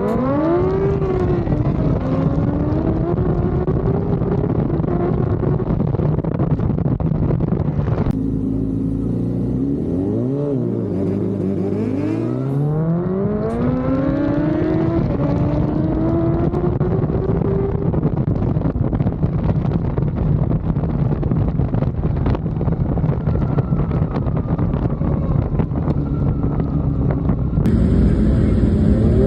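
Racing motorcycle engines at full throttle in a roll race. The pitch climbs in long sweeps and drops back at each upshift, over steady engine noise throughout.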